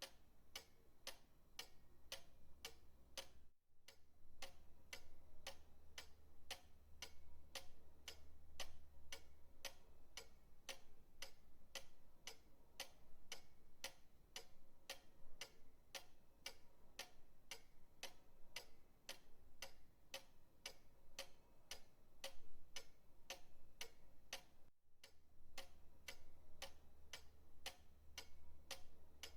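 Pendulum clock ticking steadily, about two ticks a second. The ticking drops out briefly twice, where the looped recording is joined.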